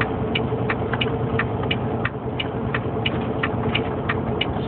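Semi truck's diesel engine running steadily in ninth gear on a long mountain downgrade, heard inside the cab, with a light regular ticking about three times a second.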